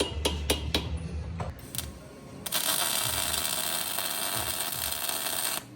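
Background music with a beat for about the first second, then a steady hiss of MIG welding that starts suddenly and runs about three seconds before cutting off sharply as the trigger is released.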